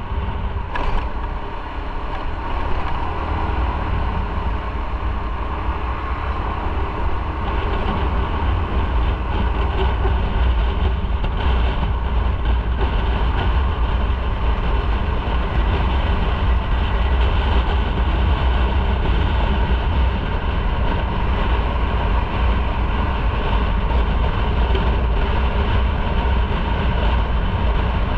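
Motorcycle riding steadily: continuous engine and road noise with heavy wind rumble on the microphone.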